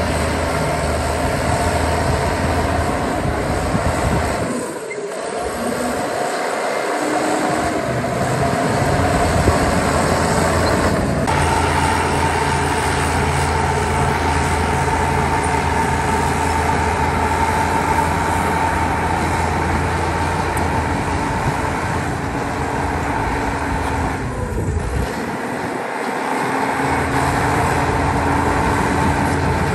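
Heavy construction-machine diesel engine running continuously under load. The low rumble drops away briefly about five seconds in and again near twenty-five seconds, and a steady whine joins about eleven seconds in.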